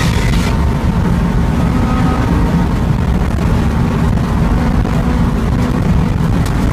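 Honda S2000's 2.2-litre four-cylinder engine heard from inside the cabin, running steadily at high speed on a straight, with heavy wind and road noise. There is a brief rush of hiss right at the start.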